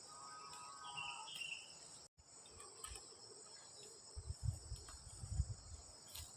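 Insects chirring steadily in a high, even drone, with a short faint call in the first second and a cluster of soft low thumps about four to five and a half seconds in.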